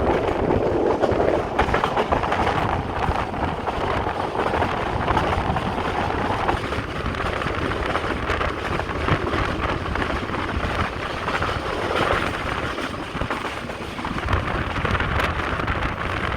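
Passenger train running along the track: a steady rumble and rattle of the carriage, with short clicks and knocks from the wheels and wind buffeting the microphone.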